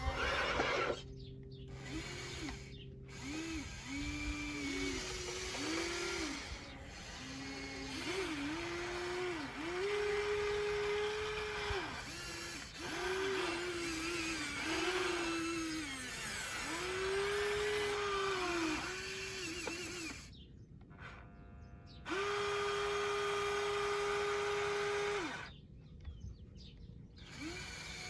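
Small electric motors of a radio-controlled construction model whining in repeated bursts, each starting and stopping with a rise and fall in pitch, with one longer steady run of a few seconds near the end.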